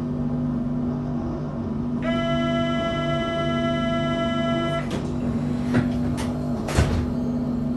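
Inside an MI79 RER B electric train car: a steady low hum, with a loud buzzing tone held for nearly three seconds starting about two seconds in, then three sharp knocks near the end.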